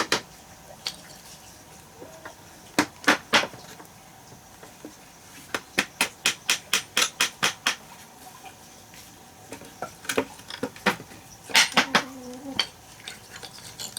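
Hammer blows in short runs: a few strikes, then a quicker run of about a dozen, then more strikes near the end.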